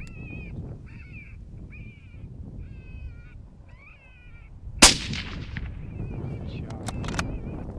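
Rabbit distress squeals from a FoxPro Shockwave electronic predator caller, short high cries repeating about once a second over low wind noise. About five seconds in, a single loud shot from a 22-250 rifle cracks and trails off in an echo, followed by a few sharp clicks.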